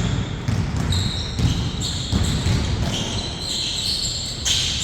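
A basketball bouncing repeatedly on a court, with short high squeaks over it in the second half.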